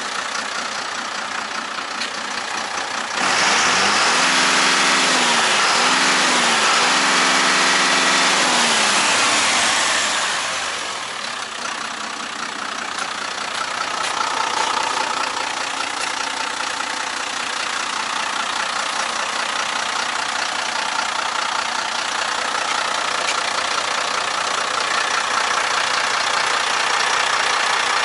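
MAN 18.284 truck's six-cylinder diesel engine idling, then revved up about three seconds in and held high for several seconds with a couple of brief dips. It falls back to a steady idle around ten seconds in.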